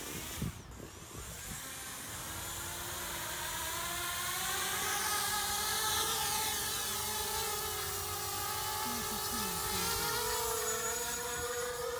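Small quadcopter's electric motors and propellers whining in flight. The pitch wavers with the throttle, and the sound swells over the first few seconds, then drifts slightly higher toward the end.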